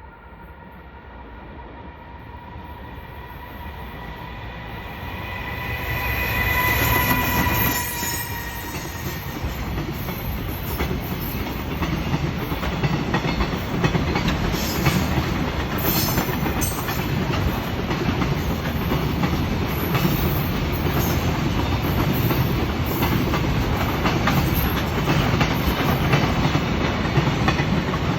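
JR Freight EF210 electric locomotive approaching with a steady whine that drops in pitch as it passes about seven seconds in, followed by a long train of container wagons rolling by with a rumble and clickety-clack of wheels over rail joints.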